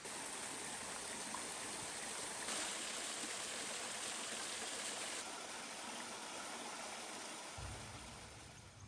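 Mountain stream running: a steady rush of water, a little brighter for a few seconds in the middle. A low hum comes in near the end.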